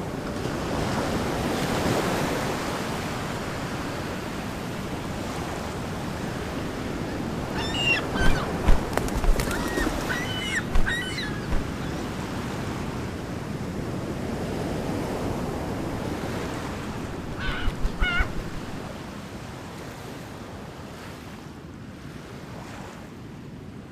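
Surf washing onto a beach in a steady rush that eases off toward the end. Short bird calls come in a cluster about eight to eleven seconds in and again in a brief burst about eighteen seconds in.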